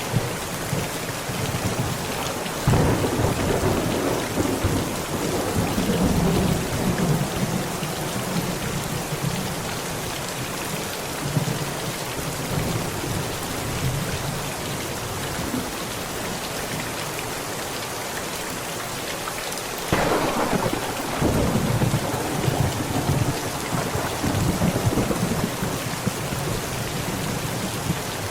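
Steady heavy rain drumming on a tent, with two peals of thunder: one cracks about three seconds in and rumbles for several seconds, and a louder one breaks about twenty seconds in and rolls on to the end.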